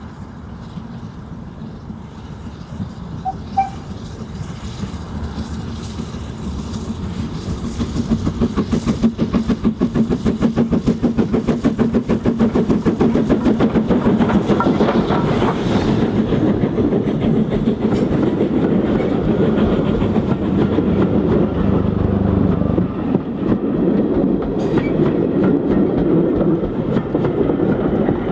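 Steam train approaching and passing close by: it grows louder over the first several seconds, then runs loud with a fast, even beat and the clatter of wheels on the rails.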